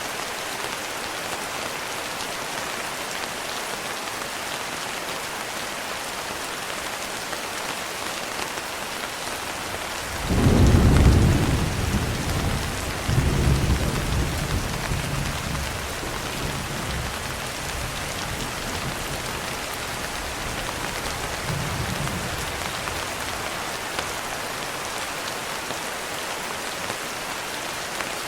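Steady rain hiss, with a deep roll of thunder about ten seconds in that swells twice and dies away over several seconds, and a faint last rumble some seconds later.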